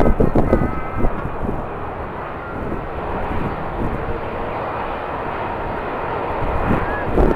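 Jet airliner engines heard across the airfield, mixed with strong wind buffeting the microphone in gusts, the loudest gusts at the start and near the end. Faint engine whine shows in the first couple of seconds.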